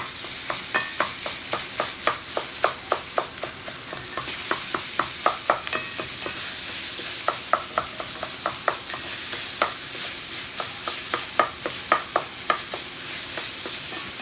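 Ground pork sausage frying with bacon grease in a hot skillet: a steady sizzle. A utensil clacks and scrapes against the pan two or three times a second as the meat is stirred and broken up.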